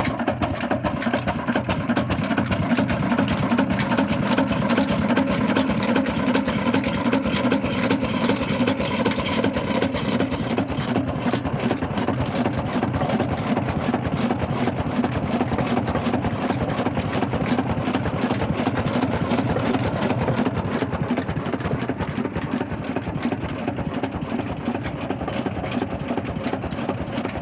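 Old Ruston Hornsby stationary diesel engine running steadily with a rapid, even beat.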